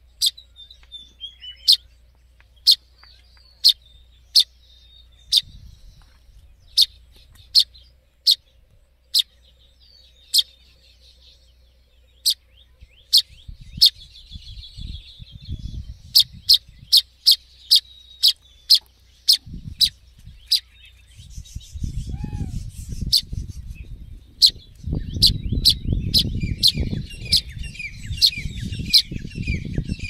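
A bird chirping: short, sharp, high chirps repeated over and over, about one or two a second, with a few warbling notes between them. A low rumbling noise comes in underneath about two-thirds of the way through.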